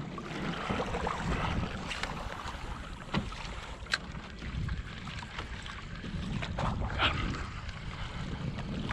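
Wind buffeting the microphone over water sloshing against a kayak hull, with a few sharp knocks or clicks about three, four and seven seconds in.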